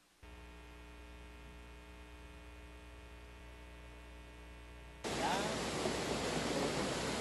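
A faint steady electronic hum made of many fixed tones. About five seconds in it cuts suddenly to a louder, even rushing noise, with a few short chirps over it.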